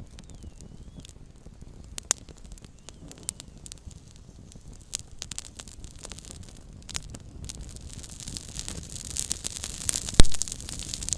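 Small campfire crackling, with scattered sharp pops over a soft hiss. The hiss thickens from about eight seconds in, and one loud pop stands out near the end.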